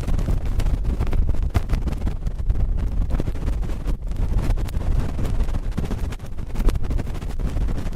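Cotton swab scratching and rubbing directly on a microphone: a continuous dense scratchy rustle, heavy in the low end, with many fine crackles.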